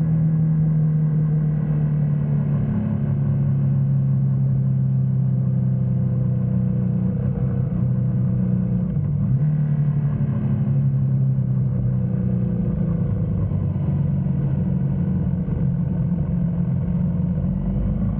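BMW GS motorcycle engine running steadily under way, its note dipping and rising a little as the throttle changes about halfway through.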